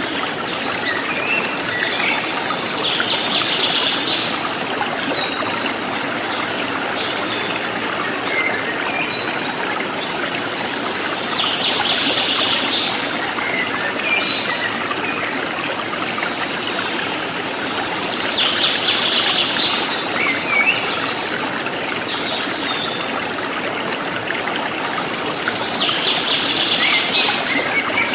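A forest stream trickling and splashing steadily, with wild birds calling over it: a quick trill of rapid high notes about every eight seconds, four times, and short scattered chirps in between.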